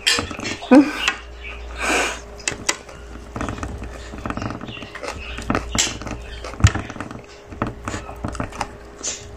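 Close-miked chewing and lip-smacking of a person eating chicken and rice by hand: a string of wet clicks and smacks, with a faint steady hum underneath.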